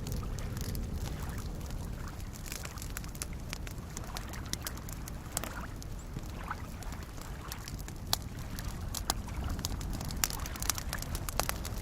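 Campfire crackling in scattered sharp pops over soft lake waves lapping with a steady low wash.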